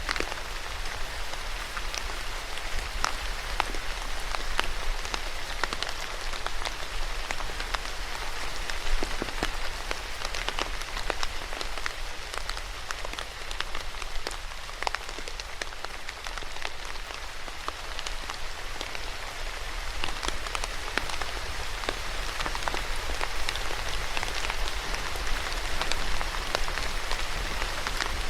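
Steady rain falling on a hard surface, a dense even hiss with many distinct drops ticking through it.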